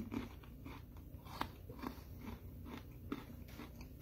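A person chewing a whole Oreo Fizzy sandwich cookie, with faint, irregular crunches several times a second.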